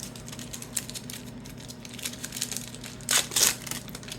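A foil trading-card pack wrapper crinkling as it is torn open, with two louder rips about three seconds in.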